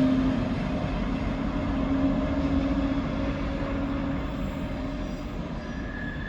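Freight train with locomotives moving off through the station: steady running noise with a locomotive hum that fades out about four seconds in, the whole sound slowly dying away.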